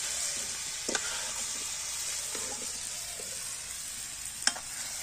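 Chicken and yam curry sizzling in a metal wok while being stirred with a metal ladle, with two sharp metal clinks of utensils against the pan, a light one about a second in and a louder one near the end.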